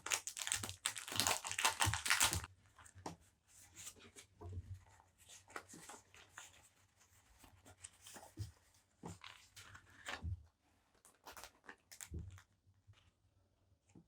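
Paper packaging being torn and rustled by hand, loudest for about the first two and a half seconds, then softer scattered rustles and light taps.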